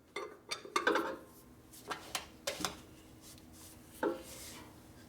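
A steel lug wrench clinking and clacking against the front wheel's lug nuts as it is fitted over them: a run of irregular sharp metal clinks. The wrench sits loosely on the stock nuts.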